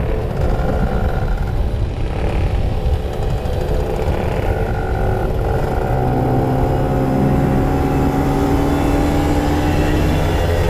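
Two-stroke motorcycle engines running under way, several notes at once. From about six seconds in, one engine's note steadies while higher notes slowly climb in pitch.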